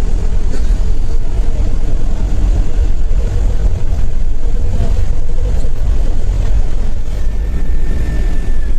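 Steady low rumble and road noise of a moving vehicle, loud and unbroken.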